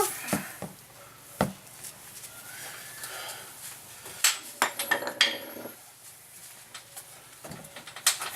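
Scattered metal clinks and knocks, with a cluster of taps about four to five seconds in, as a bolt is worked into the rear shock mount of a Honda TRX 300EX ATV.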